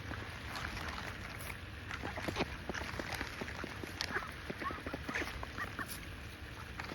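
Ducks pecking at scattered bird seed, a scatter of quick bill clicks, with a few short soft quacks around the middle.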